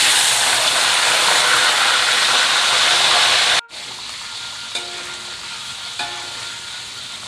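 Whole eels frying in hot oil in a wok, a loud dense sizzle right after they hit the oil. The sizzle breaks off abruptly a little over three seconds in and goes on at a lower, steady level, with two short sharp clicks as a metal spatula stirs them.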